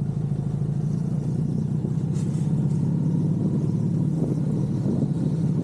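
Suzuki Hayabusa inline-four engine running steadily while being ridden at an easy cruise under about 60 km/h, held back because the bike has lost its coolant.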